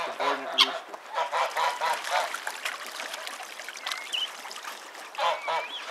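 Domestic geese honking in a string of short repeated calls, with a brief whistled chirp from another bird about four seconds in.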